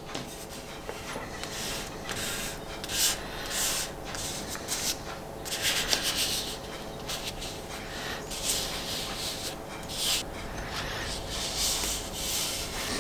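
Hands rubbing and smoothing a paper-backed decal down onto a motorcycle fuel tank: a run of irregular dry swishing strokes of skin on paper.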